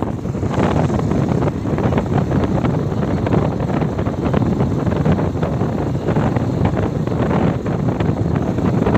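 Heavy wind buffeting on the microphone of a moving bike, fluttering constantly over a steady low rumble of riding noise.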